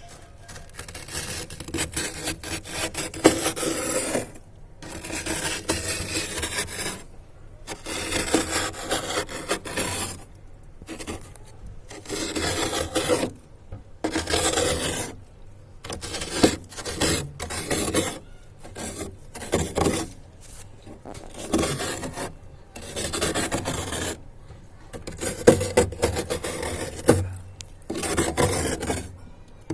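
Ice being scraped in a series of strokes, each about one to two seconds long, with short pauses between them.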